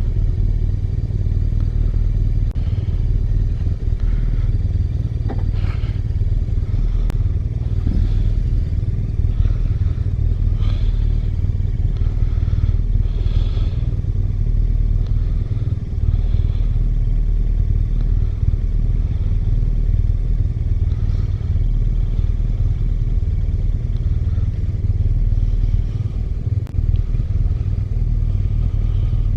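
BMW R1200R motorcycle's boxer-twin engine running steadily, a constant low rumble.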